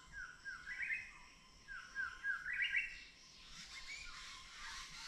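A songbird singing two short whistled phrases, each a quick run of three or four down-slurred notes followed by a few higher, rising notes, the second phrase about a second after the first.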